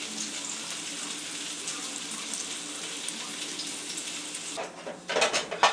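A steady hiss that cuts off abruptly about four and a half seconds in.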